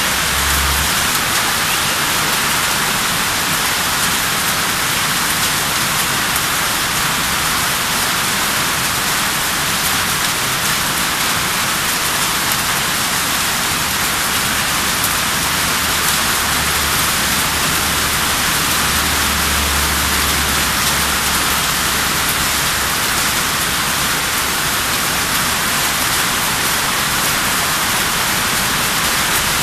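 Heavy rain pouring steadily onto a tarpaulin canopy overhead, a dense even hiss of rain on the sheet.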